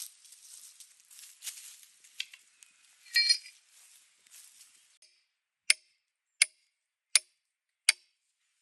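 Rustling and scattered light clicks, then four sharp knocks evenly spaced about three-quarters of a second apart in the second half.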